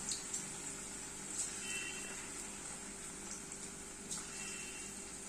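Battered chicken pakoras frying in hot oil: a steady sizzle with scattered small pops.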